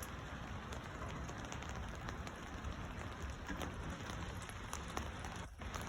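Steady light rain falling on a garden bed of young seedlings: an even hiss of rain with many small, separate drop ticks. The sound briefly drops out just before the end.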